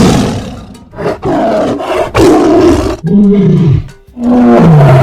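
Tiger roaring, a run of about five loud roars and growls, the last two with a pitch that falls away.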